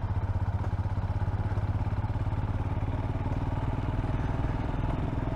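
Royal Enfield Himalayan's single-cylinder engine running steadily under way, with an even, rapid pulse, heard from the microphone inside the rider's helmet.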